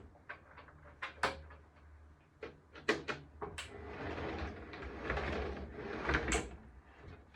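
Scattered sharp clicks and knocks from small hard objects being handled, with a rattling stretch with a low hum in the middle.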